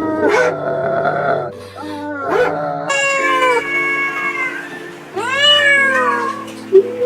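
A pet animal calling: several drawn-out, pitched cries, two longer ones in the second half, one falling and one rising then falling, over background music with sustained notes.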